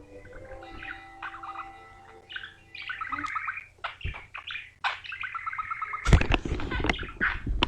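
Pet parakeet (budgerigar) chattering and warbling in a rapid run of chirps and twittering notes, with a few sharp clicks.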